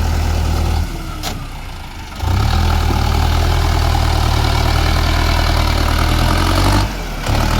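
Tractor's diesel engine running steadily with a deep low hum. The sound drops away abruptly for about a second near the start and again briefly near the end.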